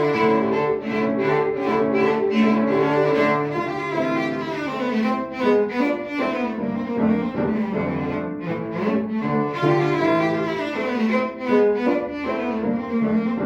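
A cello playing a classical concert piece with piano accompaniment, moving quickly from note to note.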